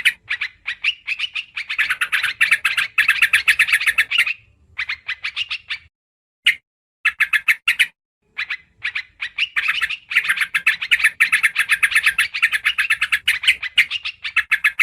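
Yellow-vented bulbul (trucukan) chattering in fast runs of short, rapidly repeated notes, in bursts of a few seconds with brief pauses around the middle. It is a bird-lure call recording meant to draw the species in.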